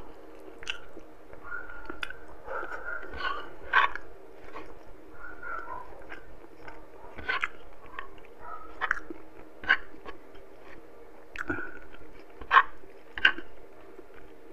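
Close-miked eating sounds of a man chewing soft, saucy braised pork afritada: irregular wet smacks and mouth clicks, a few sharper ones standing out, over a faint steady hum.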